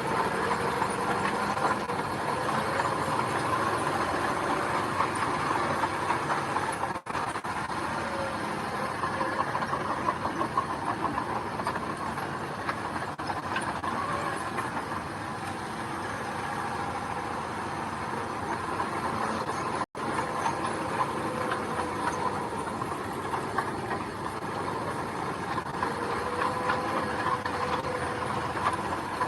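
Bulldozer's diesel engine running steadily with a continuous rattling clatter. The sound cuts out for an instant twice, about 7 and 20 seconds in.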